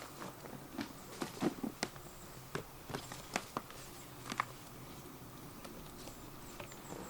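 Scattered light clicks and knocks, a dozen or so irregular taps, from a person moving about and packing up camping gear.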